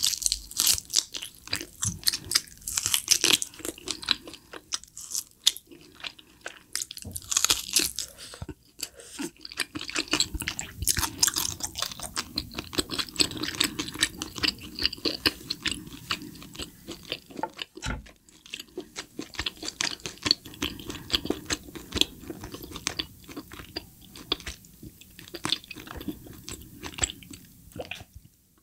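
Close-miked eating: a person biting and chewing seared meat gnawed off a tomahawk steak rib bone, with dense, irregular crackly mouth clicks that stop just before the end.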